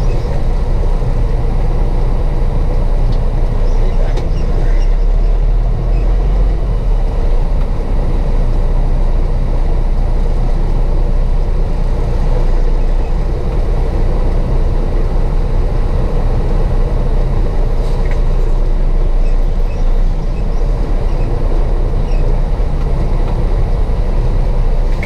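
Steady, loud low engine and road noise of a diesel truck, heard from inside the cab.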